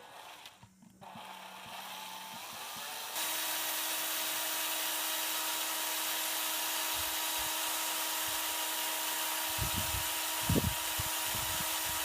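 Small electric motor starting about three seconds in and running steadily with a whine and hiss, spinning a homemade centrifugal water pump on test. A few low knocks near the end.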